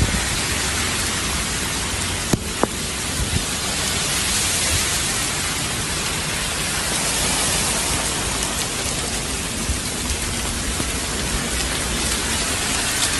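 Steady hiss of heavy rain falling, with one sharp click a little over two seconds in.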